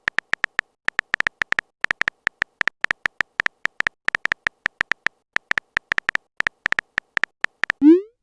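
Rapid, uneven run of short, identical high electronic beeps, a typing sound effect for text appearing in an on-screen chat, ending with a brief rising swoop just before the end.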